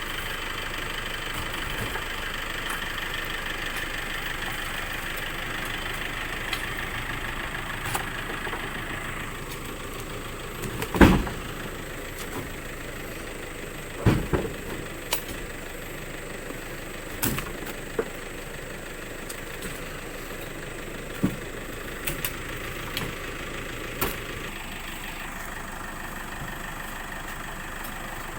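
An engine running steadily, broken by several short sharp knocks, the loudest about eleven seconds in.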